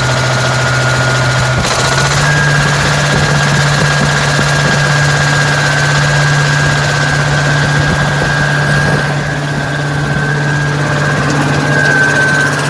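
Engine of an outdoor machine running steadily through its newly fitted exhaust, with a steady high whine over the engine note. Its speed steps up slightly about two seconds in.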